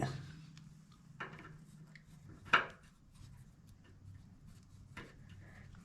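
Faint metal clinks and scrapes of a nut and leveling screw being handled, with a few small knocks, the loudest about two and a half seconds in.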